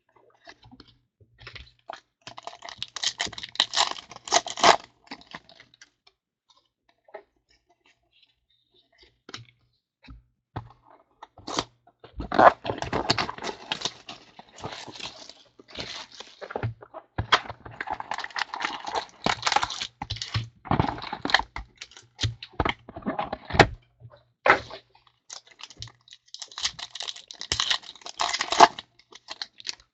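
Trading-card packs being torn open and the cards handled and shuffled: irregular spells of crinkling and ripping with sharp clicks and taps, with short quiet gaps between.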